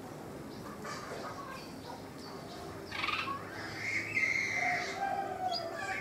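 Birds calling: a few faint, high chirps, then a harsh call about three seconds in and a longer, arching whistled call a second later.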